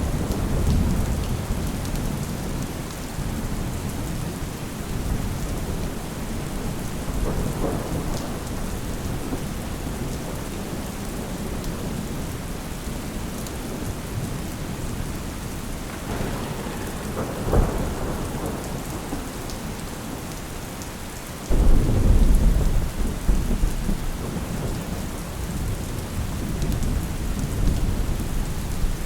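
Steady rain with rolling thunder: low rumbling throughout, a short sharp crack about two-thirds of the way in, and a loud clap of thunder breaking in suddenly soon after, rumbling on for several seconds.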